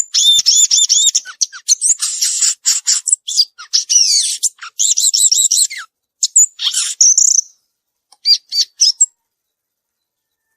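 Violaceous euphonia singing a fast, jumbled song of high chirps, quick runs of repeated notes and short trills, stopping about nine seconds in.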